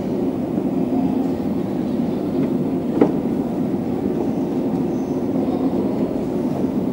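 A train running in the station, a steady low rumble, with one sharp click about three seconds in.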